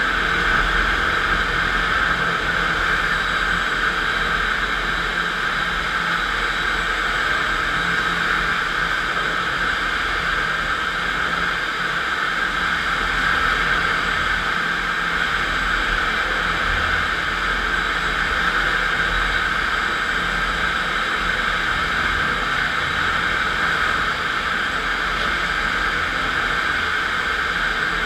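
FastPrep concrete floor grinder with its electric motor running, grinding a concrete floor with 16-grit single-rhombus diamond grinding plates. It makes a steady, even noise with a low hum under it.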